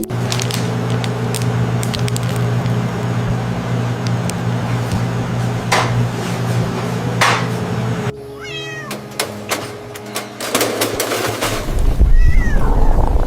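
A cat meowing over background music with steady held low notes. The music drops away about two-thirds of the way in, leaving short meows, and the sound is loudest near the end.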